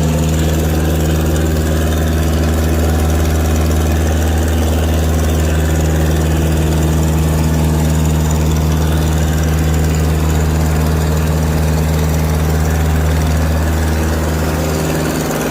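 Truck engine running at a steady speed with a continuous low hum that holds an even pitch.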